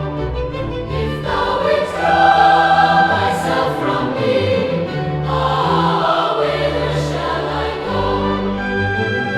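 Choir singing a slow hymn in sustained chords over a low accompaniment.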